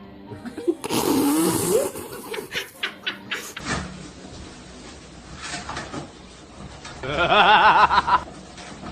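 A person laughing in quick pulses for about a second near the end. Earlier there is a loud noisy burst with a wavering tone, then several sharp knocks.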